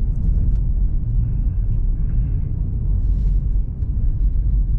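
Steady low rumble of a car being driven over snow and ice, heard from inside the cabin.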